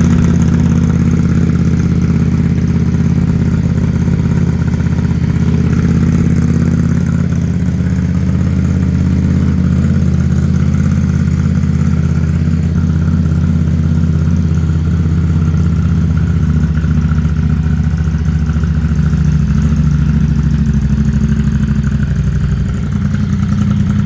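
Ducati XDiavel S's 1262 cc Testastretta DVT V-twin idling steadily through a freshly fitted, fully hand-made exhaust system, just after it has been started.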